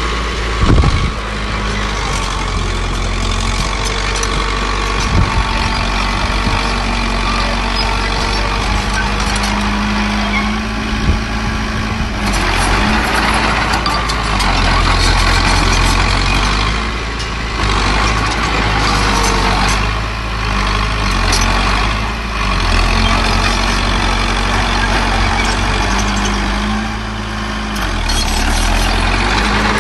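Diesel engines of a small bulldozer and dump trucks running and working, their pitch and load rising and falling, with a sharp knock about a second in and another about five seconds in.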